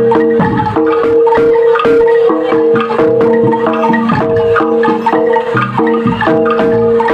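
Loud music on tuned percussion: fast, repeated struck notes with a sustained pitched tone underneath, in a steady driving rhythm.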